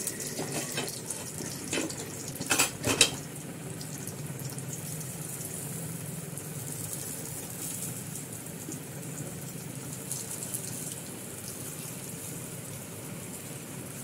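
Rava-coated vegetable cutlets sizzling steadily in shallow oil in a nonstick pan. A few knocks and scrapes of a wooden spatula against the pan come about two to three seconds in as the cutlets are turned, the loudest sounds in the stretch.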